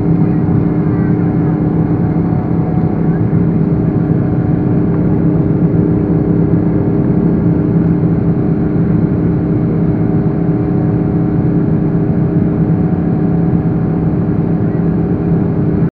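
Boeing 777's jet engines running at a steady drone after takeoff, a constant rushing noise with a few steady hum tones underneath.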